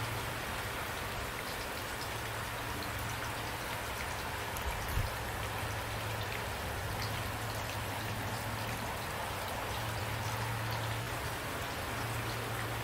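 Steady rain falling, an even hiss with scattered drop ticks over a constant low rumble, and one brief low thud about five seconds in.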